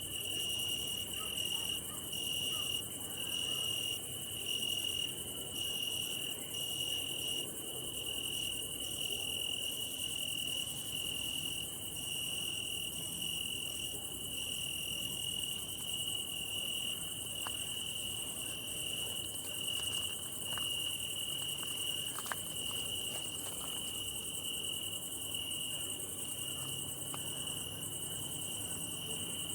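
Crickets singing at night: one steady, unbroken high trill, with a second song pulsing on and off about once a second above it through the first half. The sound is stridulation, the rubbing together of the forewings.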